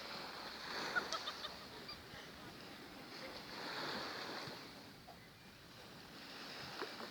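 Mediterranean sea waves washing in and drawing back, swelling and fading about every four seconds. A few short, sharp clicks sound about a second in.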